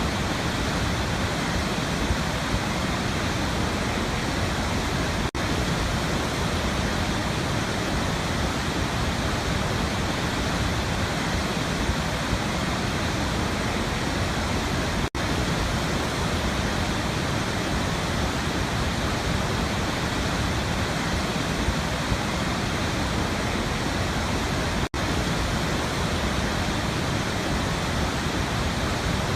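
Waterfall rushing in a steady, even roar of falling water, broken by three split-second dropouts about ten seconds apart.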